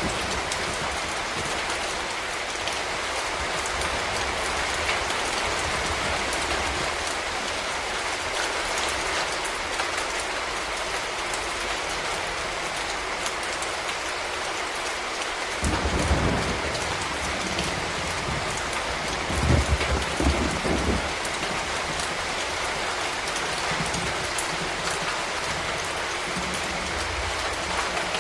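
Steady rain falling, a dense even hiss of drops on surfaces. Twice, about halfway through and again a few seconds later, a brief low rumble rises under the rain.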